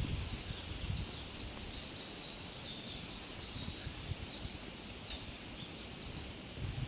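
A songbird singing a quick run of short, high chirping notes for a few seconds, over steady outdoor hiss, with wind gusting and rumbling on the microphone.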